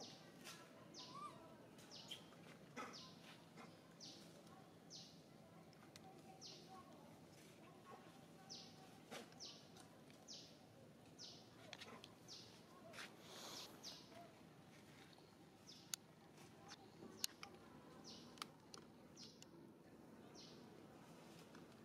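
Faint background with a bird repeating short, high, falling chirps about once a second. Two sharp clicks a little past the middle.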